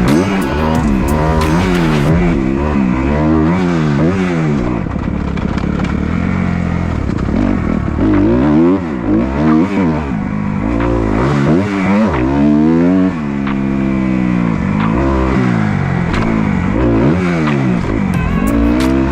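Dirt bike engine being ridden hard, revving up and falling back over and over as the throttle is opened and closed about every second or two.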